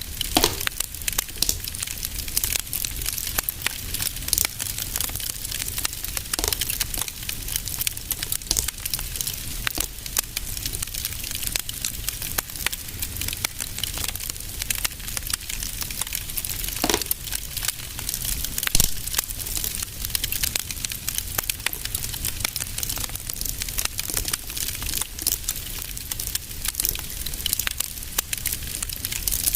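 Wood fire crackling in a fireplace: a dense, steady patter of small crackles, with a few louder pops, one near the start and two a little past the middle.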